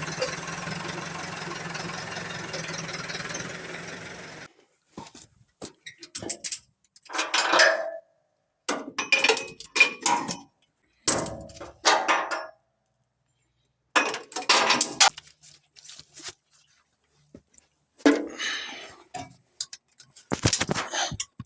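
A combine engine runs steadily for about four seconds and then cuts off abruptly. After that comes a series of short, separate metallic clanks and clinks with silent gaps between them, like metal parts or tools being handled.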